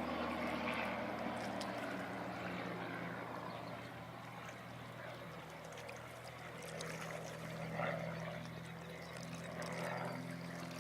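Propeller-driven warbird's piston engine droning overhead. The drone fades for a few seconds and grows again about halfway through.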